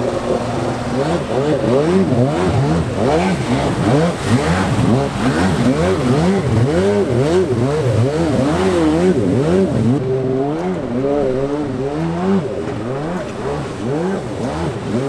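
Two-stroke stand-up jet ski engines revving hard, their pitch rising and falling over and over, about once a second, as the throttle is worked while riding.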